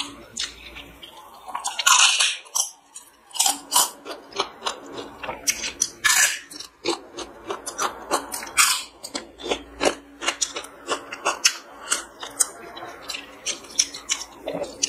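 Close-miked eating: a person chewing food with wet mouth clicks and lip smacks, several a second, with a few longer, louder hissy smacks.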